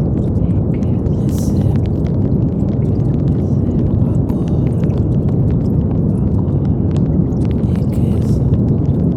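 Brown noise: a steady, deep rushing hiss with most of its weight in the low end and no changes.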